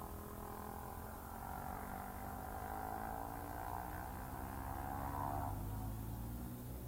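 Motorcycle engine running, its pitch dipping slightly and then holding steady before it fades about five and a half seconds in, over a constant low hum.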